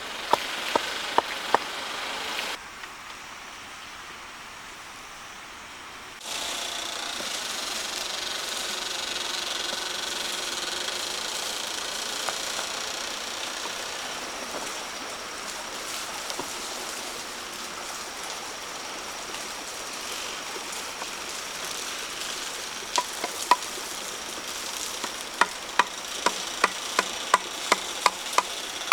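Sharp knocks repeating about three times a second. After a sudden drop, a steady rustling hiss follows, and the knocking returns near the end.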